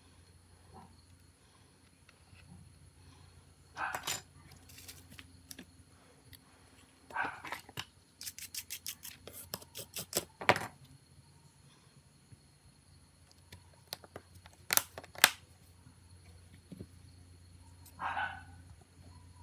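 Small, sharp clicks and taps from working on a mobile phone by hand, with a quick run of rapid clicks about halfway through and a couple of louder snaps near the end.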